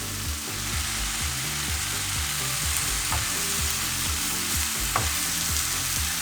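Skillet of harissa chicken chunks, potatoes, onions and peas sizzling steadily, with a couple of faint clicks.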